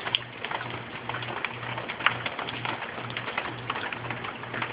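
Light rain and water dripping after a tropical-storm squall: many small, irregular ticks and patters. Under them a low hum pulses on and off about twice a second.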